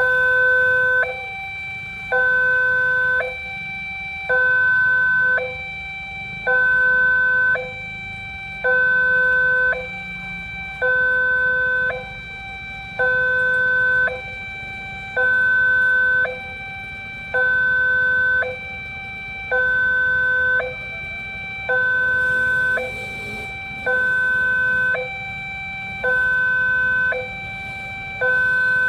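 Railway level-crossing warning alarm sounding a steady hi-lo two-tone, switching between a lower and a higher tone about once a second: the signal that a train is approaching. A low rumble runs underneath.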